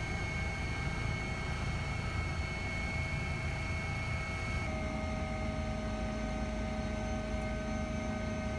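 Steady aircraft engine drone: a low rumble with held tones that stays even throughout, its pitches shifting abruptly about halfway through.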